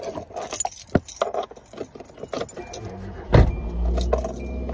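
Car keys jangling and clicking, then the car's engine starting about three seconds in and settling into a steady idle.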